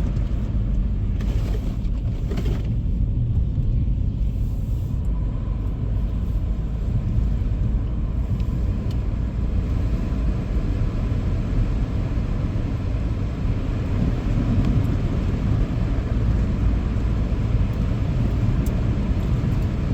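Car driving on snowy roads, heard from inside the cabin: a steady low rumble of engine and tyres.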